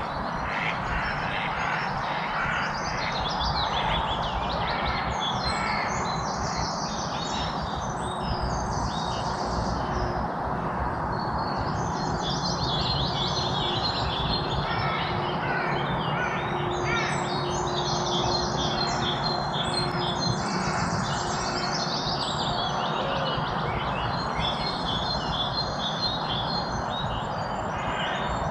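A dawn-chorus-like mix of many small songbirds chirping and trilling over one another without pause. Underneath runs a steady background rush.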